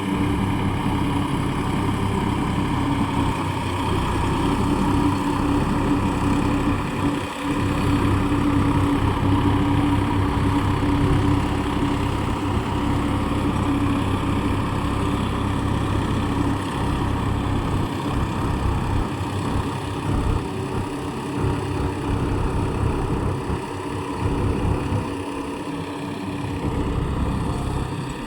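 Massey Ferguson 254 4WD tractor's diesel engine running steadily, with small dips in level now and then.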